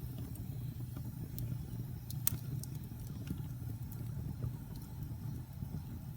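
Wood fire burning in a fireplace: a steady low rumble of flames with scattered sharp crackles and pops, the loudest about two seconds in.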